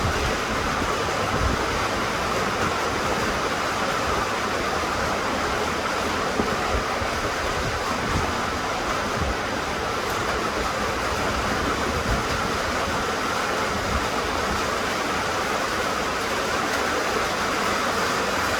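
Steady rain falling, an even hiss, with occasional soft low thuds.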